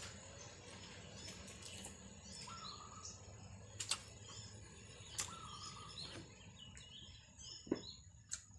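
Birds calling with short chirps and whistled notes over a steady high-pitched hum, with a few sharp clicks standing out.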